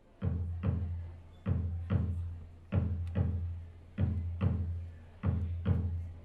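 A deep, ringing drum played alone in a steady two-stroke pattern: pairs of strokes about half a second apart, each pair repeating roughly every second and a quarter, each stroke humming for a while before the next.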